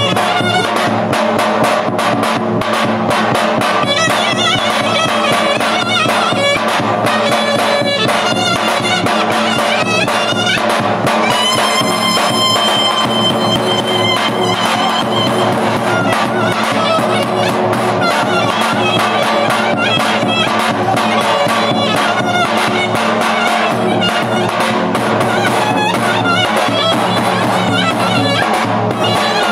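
Loud live folk dance music played without a break, led by a wind instrument over steady held notes.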